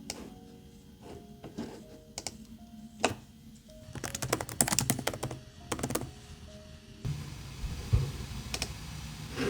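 Light clicks and taps from hands at work, with a quick run of them from about four to six seconds in, over soft background music.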